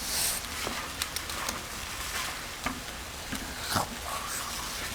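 Chicken pieces sizzling in a frying pan, with a brief louder burst right at the start and several sharp clicks of a utensil against the pan.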